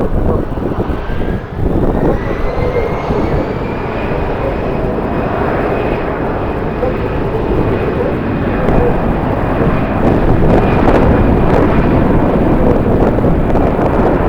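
Jet airliner's engines running, a whine rising in pitch over the first few seconds and then holding steady above a heavy rumble, growing a little louder later on. Strong wind buffets the microphone throughout.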